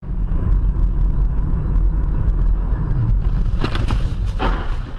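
Dashcam audio from inside a moving car: a steady, loud low rumble of road and engine noise, with a few short, sharper sounds about three and a half to four and a half seconds in.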